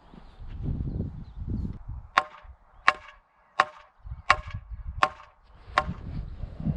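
Hammer striking wood six times at an even pace, about a blow every 0.7 s, each ringing briefly.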